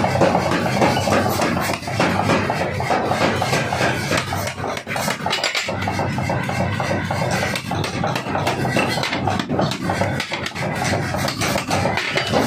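A 75 kg pneumatic forging hammer running, its ram striking in rapid repeated blows over a steady machine hum while an axe head is forged.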